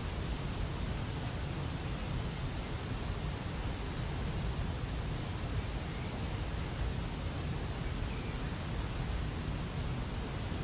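Waterfall rushing steadily, with a small bird calling short high chirps over it, about two a second in a few short runs.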